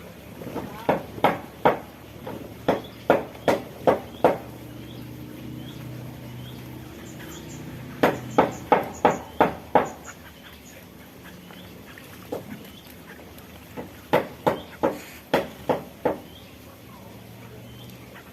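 Bird calls in three runs of loud, short, harsh calls, about three a second, with faint small-bird chirps between the runs.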